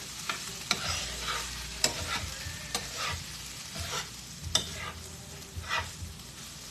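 Cauliflower rice with shrimp, onion and carrots sizzling as it fries on high heat in a pan. A cooking utensil stirs it, clacking and scraping against the pan at irregular moments, one or two times a second.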